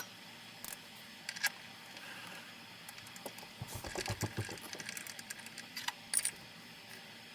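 Scattered light clicks with a run of small, quick knocks and rattles in the middle, typical of hand tools and metal parts being handled during hand tapping.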